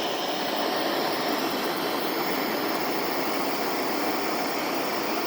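Steady roar of a handheld torch flame playing on a pressurized two-stroke expansion chamber, heating the metal so the air pressure inside pushes a dent out.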